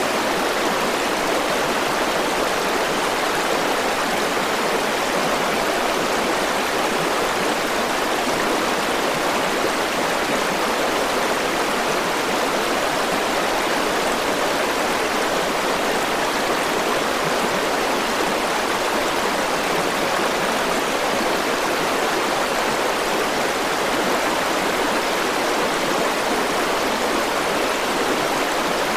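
River water flowing and rushing over rocks, a steady, even sound with no breaks.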